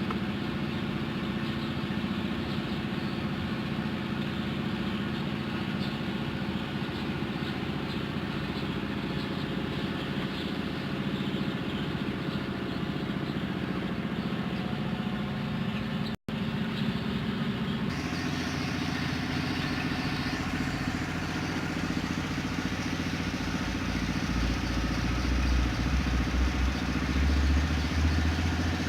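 Mitsubishi Strada L200 engine idling steadily. A brief cut about 16 seconds in, after which the note changes, and the low rumble grows louder near the end.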